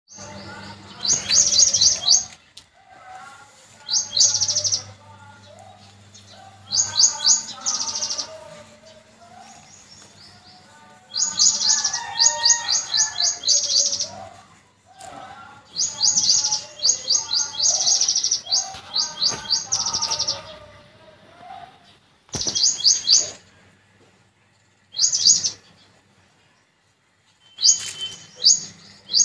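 Birds chirping: repeated bouts of rapid, high-pitched chirps, each a second or a few seconds long, coming every few seconds, with lower warbling notes underneath.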